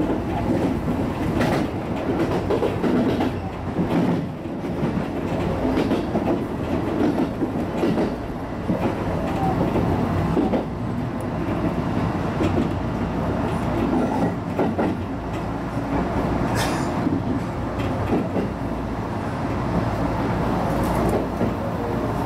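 Senseki-Tohoku Line HB-E210 hybrid diesel train running along the line: a steady rumble of wheels on the rails, with a couple of sharp clacks from rail joints.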